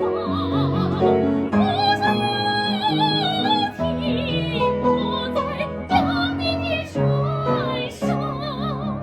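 Soprano singing in a trained operatic style, held notes with a wide vibrato in several short phrases, over piano accompaniment.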